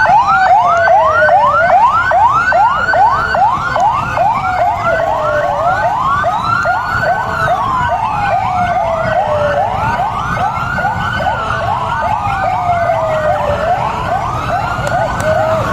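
Two electronic sirens sounding together: one in a fast yelp of about three to four rising sweeps a second, the other in a slow wail that rises and falls about every four seconds.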